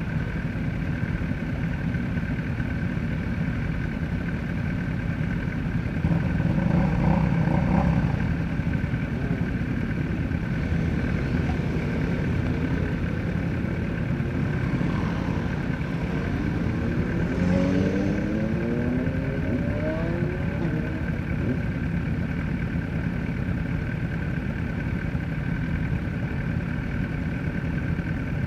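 Onboard sound of a Kawasaki ZX-10R's inline-four engine on a race track, with heavy wind rush over the camera. The engine note rises in pitch several times near the middle as the bike accelerates hard through the gears.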